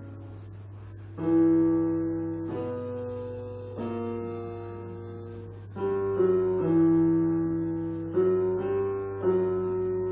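Piano playing slow chords, each struck and left to ring and fade, with new chords coming quicker near the end. A steady low hum runs underneath.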